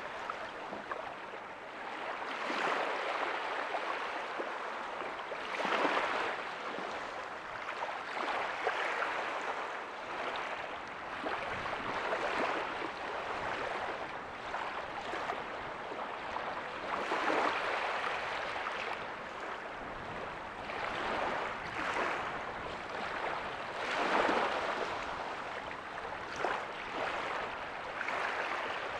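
Ocean waves breaking softly on a beach, a continuous wash of surf that swells as each wave breaks every few seconds.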